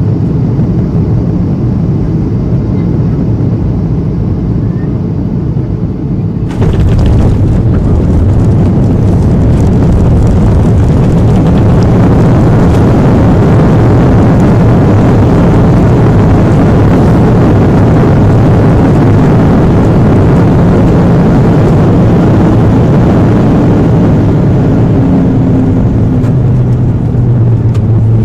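Loud, steady roar of a Boeing 737-800 airliner heard from inside the cabin. About six and a half seconds in it turns abruptly louder and brighter, and a low steady hum comes through near the end.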